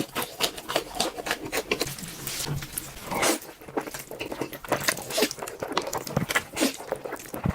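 Close-miked eating of noodles: slurping and chewing, a rapid irregular run of wet clicks and smacks with a longer slurp about three seconds in.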